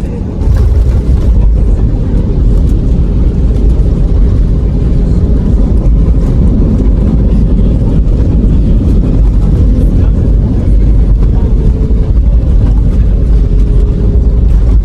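Airliner landing heard from inside the cabin: a loud, steady rumble of engines and runway noise that jumps up suddenly about half a second in, typical of touchdown and the rollout.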